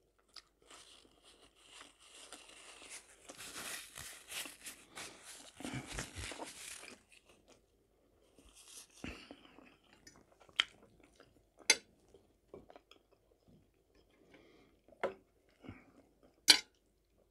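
Close-miked chewing and wet mouth sounds of someone eating roast chicken leg and stewed cabbage, busiest in the first half, then a few sharp separate clicks.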